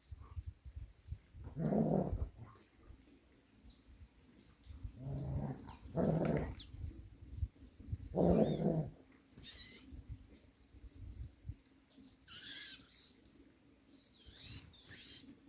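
A dog growling, three low calls of about a second each in the first half. In the second half come thin, high calls of sayaca tanagers.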